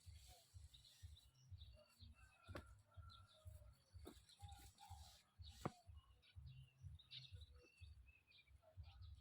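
Faint, scattered bird chirps over a low, uneven rumble, with three sharp clicks in the middle.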